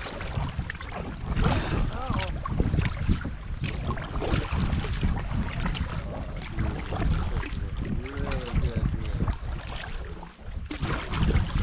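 Wind buffeting the microphone on a canoe out on the river, a gusting low rumble that rises and falls. A few short calls that sound like voices come through about two seconds in and again about eight seconds in.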